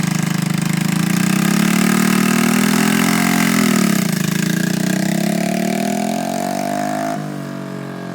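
Honda Z50 mini bike's small single-cylinder four-stroke engine running on a test ride after a new ignition coil was fitted. The revs climb, drop sharply about four seconds in, and climb again. Near the end the sound changes abruptly to a lower, steadier run.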